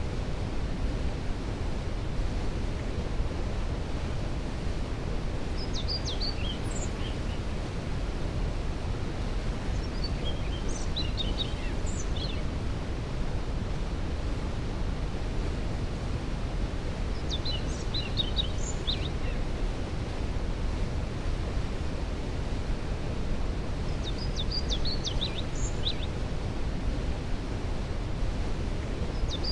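Steady low rush of a waterfall. A songbird sings short, high twittering phrases over it about every six seconds.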